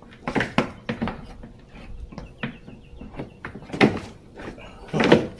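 Plastic knocks and clatter as the rear discharge flap of a Greenworks 16-inch cordless mower is lifted and the grass bag is fitted on. The sharp knocks come irregularly, and the loudest are near four and five seconds in.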